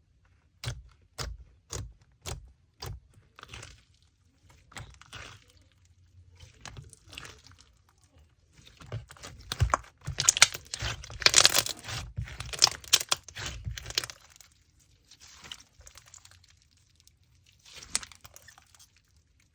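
Slime being pressed and stretched by hand, giving a few sharp clicks early on and then a dense run of crackling and popping from about halfway through.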